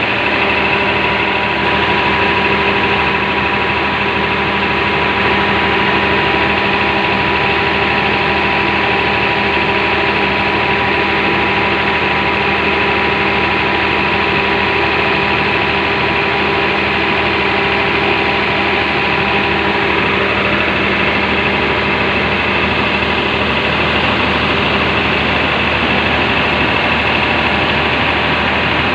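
Cummins KTAA19 six-cylinder diesel engine running steadily on a test run. It makes a loud, constant drone with steady tones and holds the same speed throughout.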